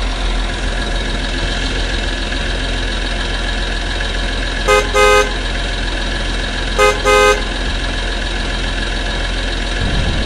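A vehicle engine running steadily, with a horn honking twice, each time a short beep followed by a longer one, about five and seven seconds in.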